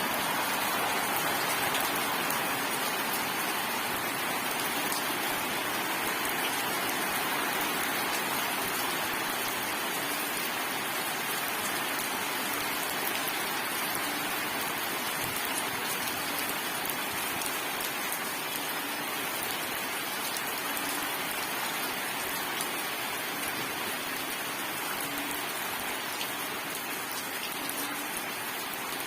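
Steady rainstorm: a dense, even hiss of rain falling on surfaces, without thunder.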